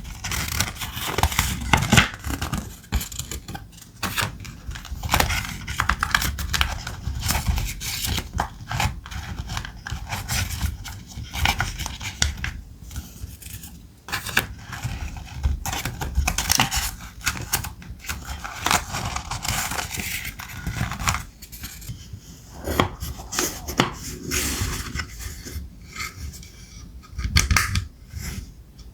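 Thick vintage ephemera paper handled close to the microphone: rustling, sliding and scraping sheets, with many small crisp clicks and strokes.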